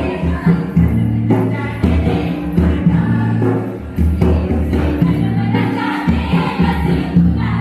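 Several voices singing together over music, with a regular beat landing about every second and a quarter.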